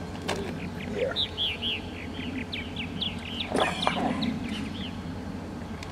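A songbird singing a quick run of about a dozen chirping notes, starting about a second in, over a low steady rumble, with a couple of sharp clicks.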